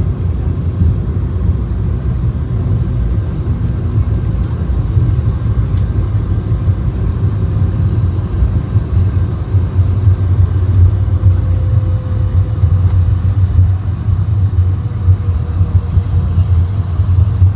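Steady low rumble of cabin noise inside a moving Airbus A220-100 airliner. A faint tone runs above it and falls slightly in pitch in the second half.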